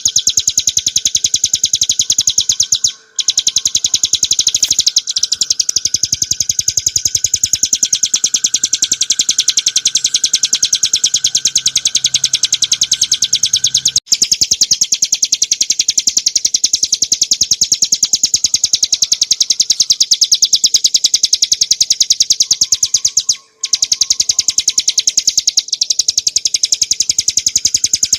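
A ciblek gunung (a prinia) singing a loud, rapid, unbroken high-pitched trill, the continuous 'ngebren' song used as training audio for cage birds. The trill breaks off briefly about 3, 14 and 23 seconds in.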